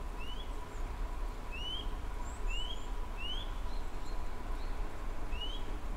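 A small bird calling outdoors in short rising chirps, repeated every second or so, over a steady low rumble.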